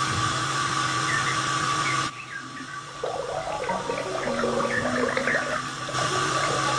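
Rushing water over a steady high hum. It drops abruptly quieter about two seconds in and comes back near the end.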